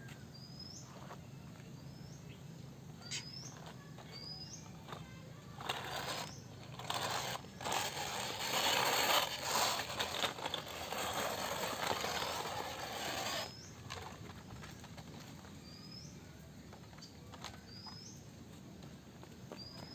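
A bird repeating a short, high chirp about every second and a half. From about six seconds in until just past thirteen seconds, a louder, even rushing noise covers it.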